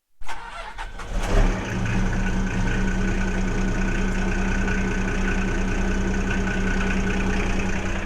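Old diesel truck engine cranking briefly, catching about a second in and settling into a steady idle.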